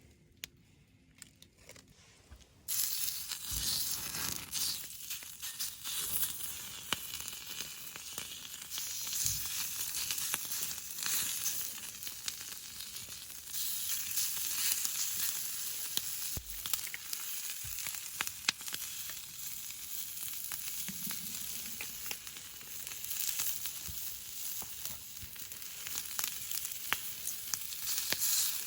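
Meat sizzling as it grills: a steady frying hiss with small pops that starts suddenly about three seconds in, as the meat goes onto the heat.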